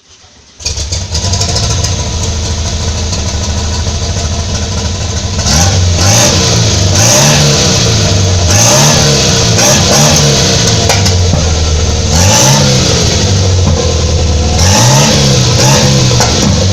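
VW 1200 air-cooled flat-four, bored out to 1400 cc with a big bore kit and running on Honda CBR motorcycle carburettors. It comes in suddenly and idles steadily, then from about five seconds in it is revved in a series of throttle blips, each rising and falling in pitch.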